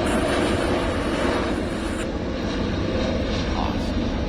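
Douglas DC-8 four-engine jet airliner's engines at takeoff power, heard from afar as a steady low rumble. A high hiss drops away about two seconds in.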